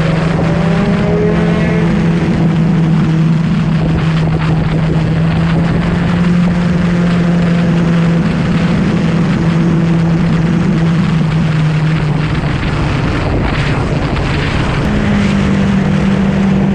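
A sportbike engine running at steady revs under a constant rush of wind noise, its pitch stepping up about 15 seconds in.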